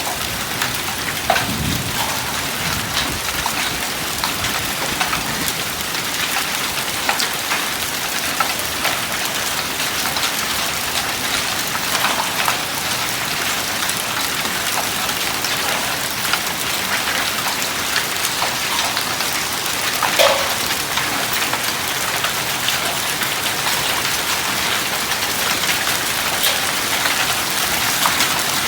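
Hailstorm: heavy rain and hail falling, a steady dense hiss peppered with sharp ticks of hailstones hitting. A brief low rumble about two seconds in.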